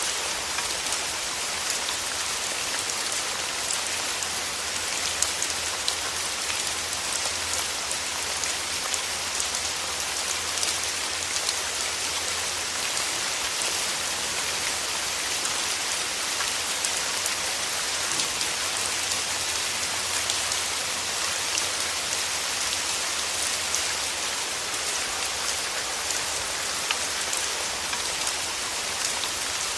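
Steady rain falling on rose petals: an even hiss of rainfall with many small, sharp drop ticks scattered through it.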